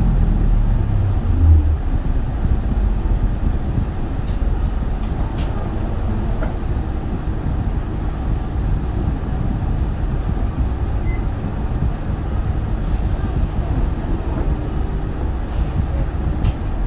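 Inside an Isuzu Erga city bus (2RG-LV290N3) on the move: a steady low rumble of the four-cylinder diesel engine and road noise. The engine's pitched drone fades out about a second and a half in, and a few brief hisses follow later.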